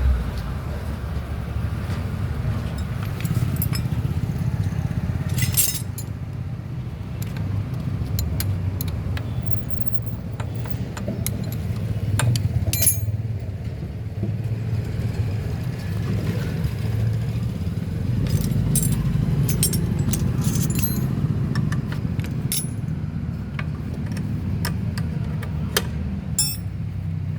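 Metal spanners and engine parts clinking and jangling now and then, as a motorcycle engine is unbolted by hand, over a steady low rumble.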